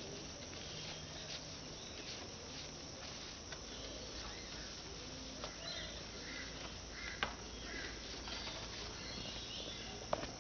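Outdoor ambience: scattered short bird chirps over a steady hiss, with a couple of sharp knocks, one about seven seconds in and one near the end.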